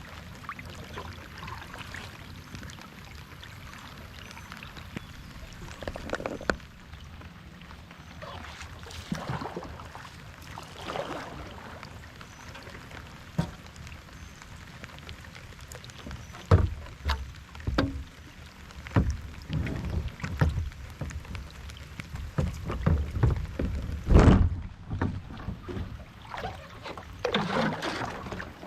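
Kayak paddle strokes swishing through the water, with a run of hollow low thumps and knocks in the second half, the paddle or gear bumping the kayak's hull.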